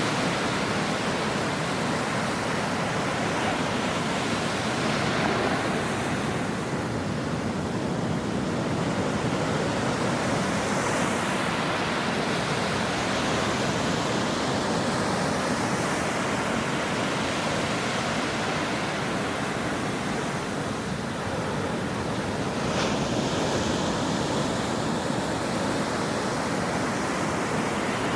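Ocean waves breaking on a shore: a continuous wash of surf that slowly swells and eases as the waves come in and draw back.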